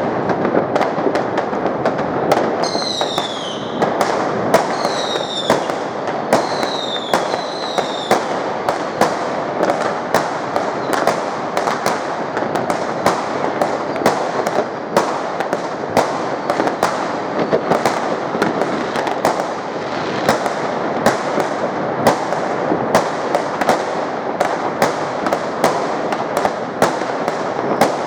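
New Year's Eve fireworks and firecrackers going off without a break: a dense run of sharp bangs over steady crackling, with four short falling whistles from whistling fireworks a few seconds in.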